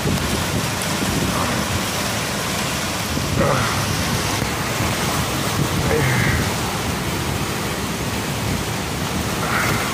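Hurricane wind and rain making a loud, steady rushing noise.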